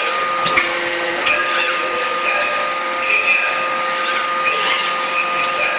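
Steady industrial machinery noise from a forging workshop: a constant hiss with several steady whining tones, broken by two light knocks about half a second and a second and a quarter in.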